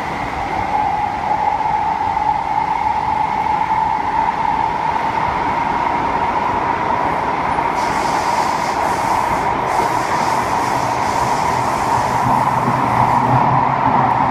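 Inside the carriage of an SMRT C151A metro train running through a tunnel: a steady rumble of wheels on rail with a high whine that rises slightly in pitch. A hiss joins about eight seconds in and fades a few seconds later.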